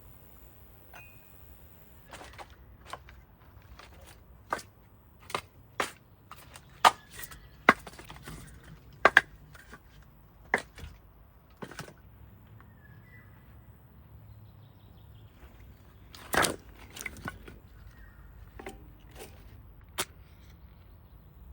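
A series of irregular, sharp knocks and clicks, a dozen or so close together in the first half, then a louder cluster and a single knock later on.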